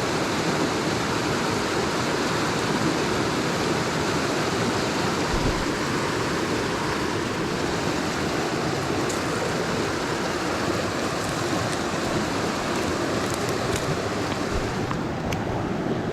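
Steady rush of a mountain stream's flowing water, with one low bump about five seconds in.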